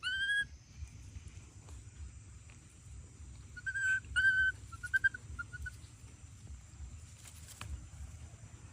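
Baby monkey crying in short, high-pitched squeaky calls: one rising cry at the start, two more about four seconds in, then a quick run of short chirps.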